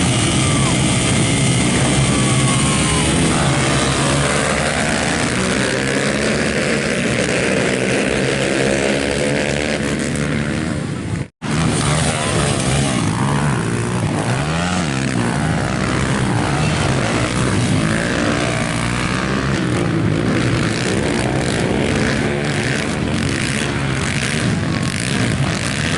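Several racing motorcycle engines revving up and down together as they lap the circuit, with pitches rising and falling. The sound drops out suddenly for a moment about eleven seconds in.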